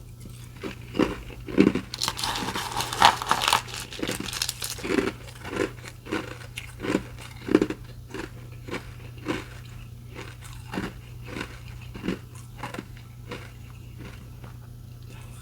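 Close-miked crunching of restaurant ice being bitten and chewed: a long, loud crushing bite about two seconds in, then steady chewing crunches roughly twice a second that thin out near the end.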